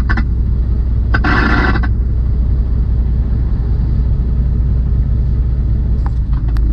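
Tractor-trailer running down the road, a steady low rumble of engine and road noise, with a short hiss about a second in.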